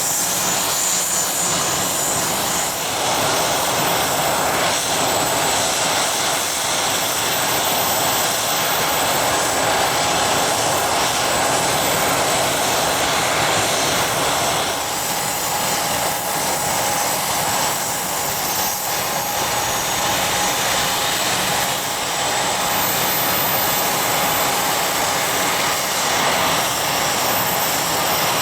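Business jet's turbofan engines running with a steady rushing noise and a thin whine; a steady mid-pitched tone joins about halfway through.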